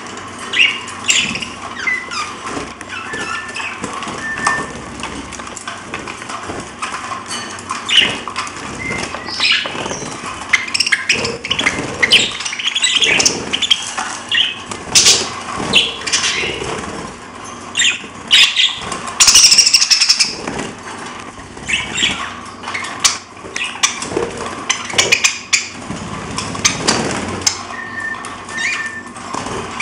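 Pet parrots chirping and squawking in short, irregular calls, with a few short whistled notes and fluttering wings. One loud, harsh squawk comes about two-thirds of the way through.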